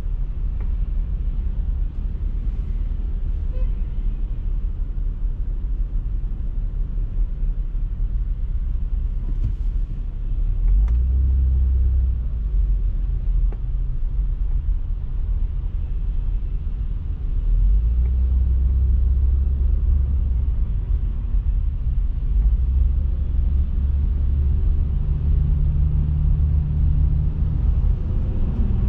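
Car driving on city streets: a steady low road and engine rumble that swells louder about ten seconds in and again from about halfway through.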